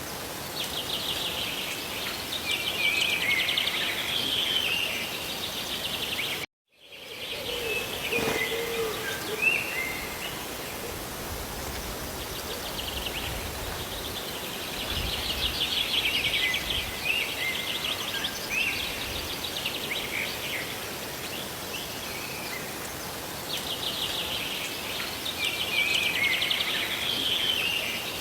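Steady hiss of falling rain and water, with small birds chirping and trilling in repeated bouts every several seconds. The sound cuts out completely for a moment about six seconds in.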